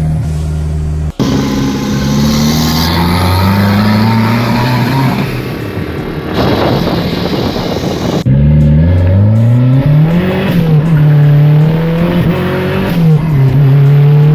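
Turbocharged Fiat Uno 1.6 engine revving under hard acceleration, its pitch climbing and dropping back at each gear change. The sound jumps abruptly twice where short clips are cut together.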